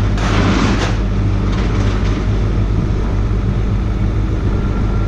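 A vehicle engine running steadily with a low drone, with a short hiss about a quarter of a second in.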